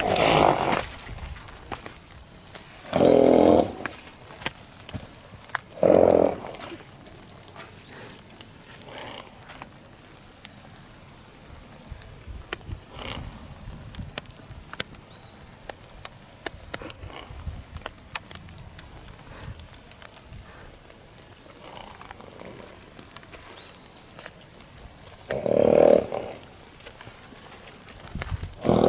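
A thoroughbred stallion making short, loud vocal sounds, five of them spaced several seconds apart, with faint knocks in between.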